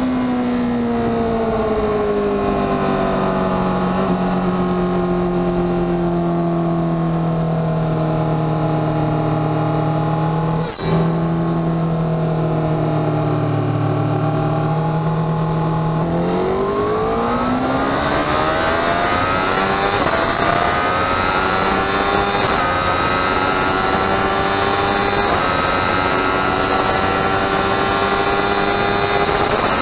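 Honda CBR1000RR Fireblade's inline-four engine heard from on board, slowing with its pitch gradually falling as the bike is shifted down through the gears, with a brief break at a gear change about eleven seconds in. About halfway through the throttle is opened hard and the engine revs climb steeply and keep rising under full acceleration, with wind rush building over it.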